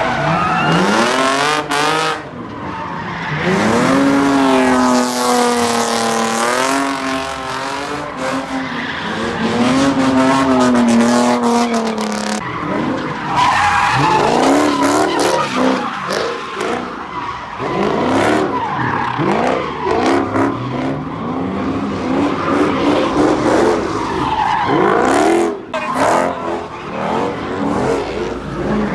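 Car engines revving hard, held high for a few seconds and then repeatedly rising and falling in pitch, with tires squealing and skidding, as in burnouts and donuts.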